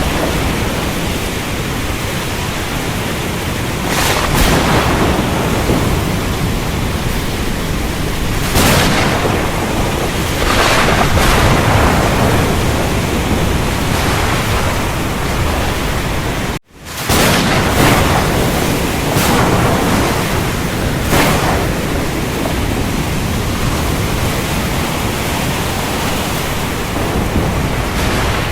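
Steady hiss of heavy rain in a thunderstorm recording, swelling louder every few seconds. A little over halfway the sound cuts out for an instant and comes back, like an edit splice.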